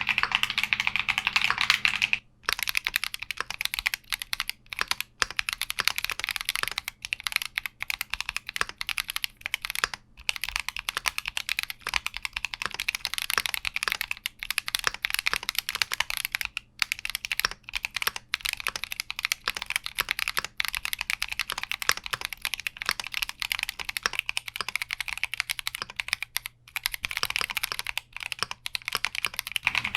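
Fast, continuous typing on a Keychron Q60 mechanical keyboard, the keystrokes clacking in a dense stream. About two seconds in, the typing briefly breaks off and resumes with a slightly different tone.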